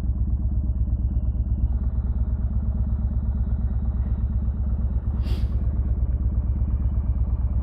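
Yamaha Bolt's air-cooled V-twin engine idling steadily with an even low pulse, not revved. A brief hiss about five seconds in.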